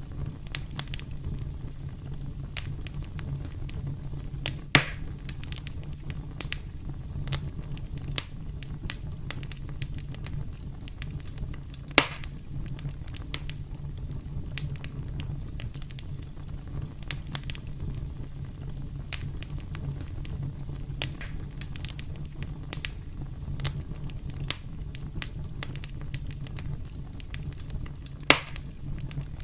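Campfire crackling steadily over a low rumble, with many small snaps and three louder pops: one about five seconds in, one near the middle, one near the end.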